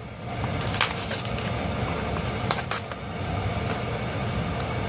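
Steady background hum with a few sharp clicks and crackles of a plastic blister pack being handled and opened to get a die-cast toy truck out.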